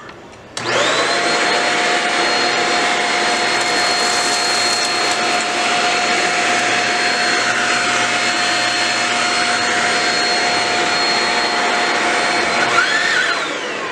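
Shark Rocket DuoClean stick vacuum switched on a little over half a second in and running steadily with a high motor whine, then switched off near the end, its whine falling as the motor winds down.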